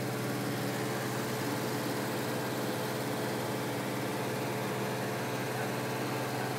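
A 1980 Volkswagen Transporter's air-cooled flat-four engine idling steadily.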